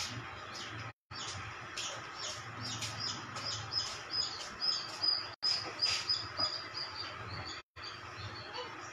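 A small bird chirping repeatedly: a quick run of short, high chirps, about three a second, through the middle, slowly dropping in pitch, over a faint steady hum.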